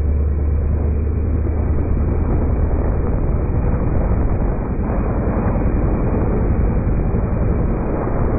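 Wind rushing over a microphone taped to the front of a moving 1988 Ford Escort GT, mixed with road and engine noise. A strong low drone fades out about a second and a half in.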